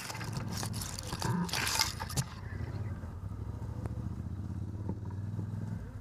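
ATV engine running steadily at low revs, with several short noisy bursts in the first two seconds.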